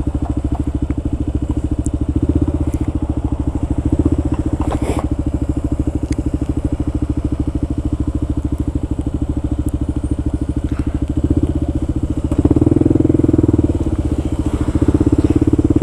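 Kawasaki KLR650's single-cylinder four-stroke engine running at low speed with a rapid, even pulse. It grows louder twice near the end.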